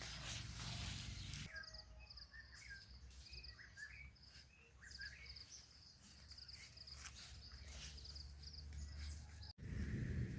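Faint birdsong: a repeated high trill and scattered short chirps. Near the end it cuts abruptly to a steady hiss of rain.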